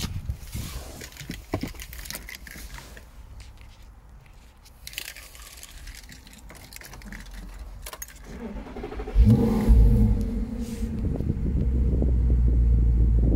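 Light clicks and rustling, then about nine seconds in the Audi R8's engine starts with a loud flare and settles into a steady idle.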